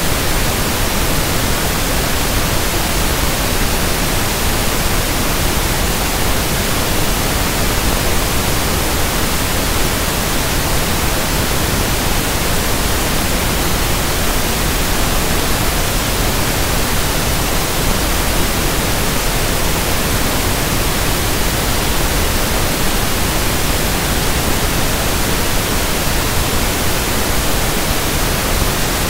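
Steady, unbroken pink noise (1/f noise): an even hiss spread across the whole range, with no change in level.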